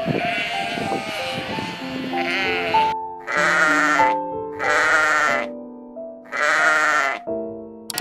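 Sheep bleating, several overlapping at first, then three loud separate quavering bleats in the second half, over soft background music with held notes.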